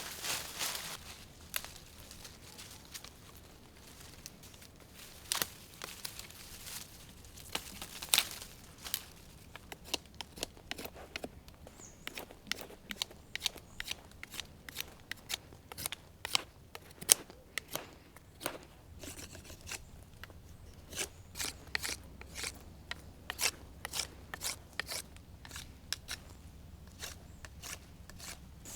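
A run of short, sharp cutting snips during food preparation: sparse at first, then coming quickly, a few a second, from about ten seconds in.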